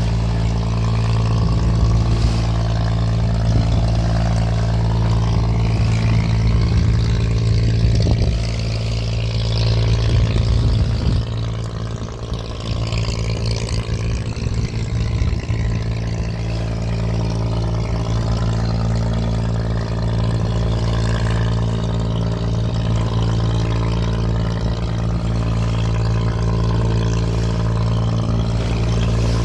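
A boat's engine running steadily at constant speed, a low even drone, with a short dip in level about twelve seconds in.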